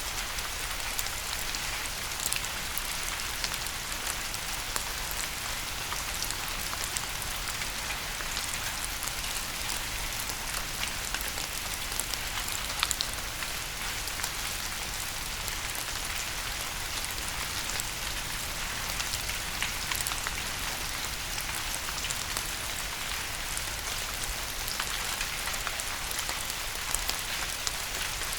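Steady rain: an even hiss dotted with many small drop ticks, unchanging throughout.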